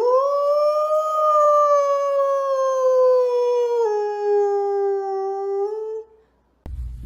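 A dog howling: one long howl of about six seconds that rises briefly at the start, then slowly falls in pitch, dropping a step about two-thirds of the way through.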